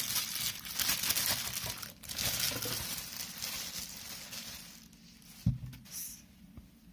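Packaging crinkling and rustling while the jug is unwrapped, fading after about four seconds, with a single sharp knock about five and a half seconds in.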